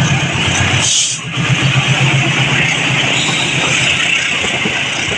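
Loud, steady vehicle noise with a rushing hiss. A low hum stops after a short dip about a second in.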